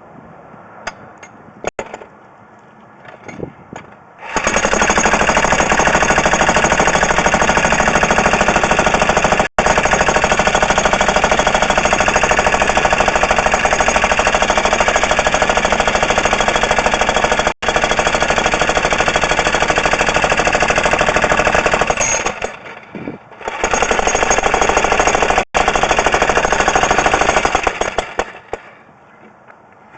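Jackhammer running in a long loud run of rapid hammering, stopping briefly about two-thirds of the way through, then running again and stopping near the end.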